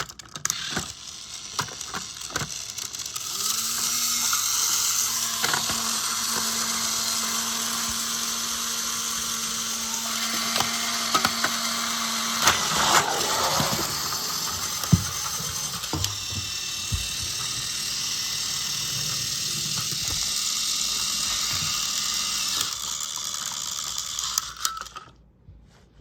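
Small electric motors and plastic gearboxes of modified motorised toy trains running fast on a plastic track: a busy mechanical whirring and clattering with scattered clicks. It cuts off suddenly about a second before the end.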